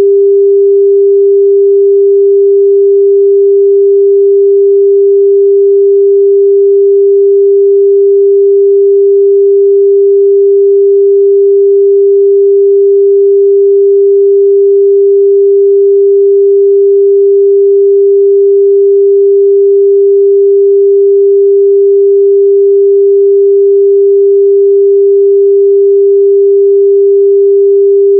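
A steady, loud 398 Hz sine-wave test tone, a single pure pitch held without change, used to check a speaker's or headphones' midrange response.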